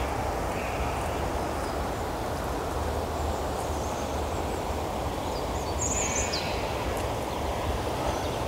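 Steady rushing outdoor background noise, with a small bird chirping a few short calls, most clearly about six seconds in.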